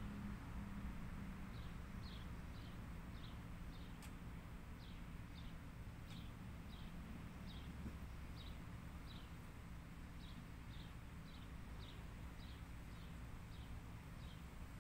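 A bird calling outdoors, repeating a short, high, falling note about twice a second over a steady low rumble.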